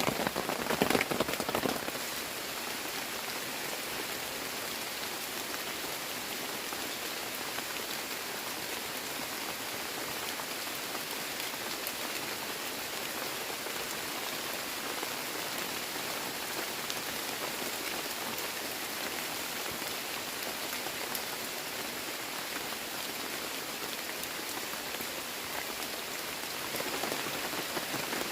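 Heavy rain falling steadily as an even hiss of drops, louder and fuller for the first couple of seconds and picking up again near the end.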